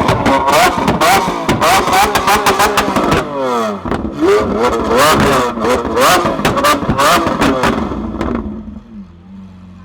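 Lamborghini Aventador's V12 fitted with a Capristo aftermarket exhaust, revved in quick repeated blips with sharp exhaust pops and bangs from flames spitting out of the exhaust. Near the end it drops back to a steady idle.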